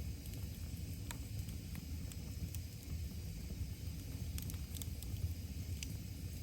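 Wood fire crackling, with a few sharp pops here and there over a steady low rumble.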